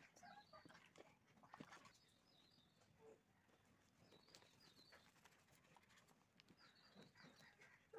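Near silence, with faint bird chirps in the background a few times.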